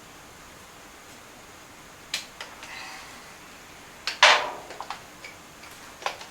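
Tools and metal parts being handled on a workbench: a few sharp clicks and clanks, with a brief metallic ring near three seconds and the loudest clank about four seconds in.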